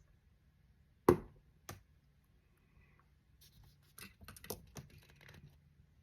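Hard objects handled on a work table: a sharp knock about a second in and a lighter one just after, then a run of small clicks and rustling.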